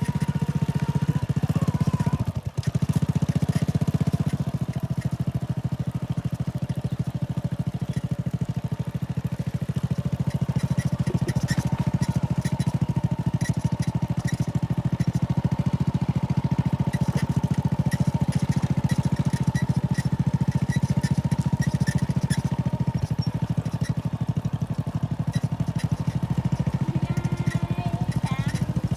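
Motorcycle engine running steadily while being ridden, with one brief drop in the sound about two and a half seconds in.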